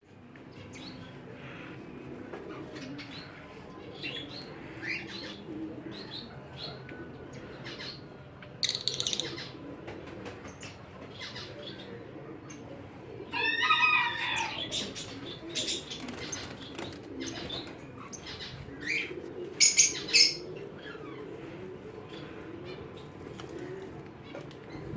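Birds calling together: a continuous low cooing under scattered short chirps. A louder rising call comes just past halfway, and brief noisy bursts come about a third of the way in and again near the end.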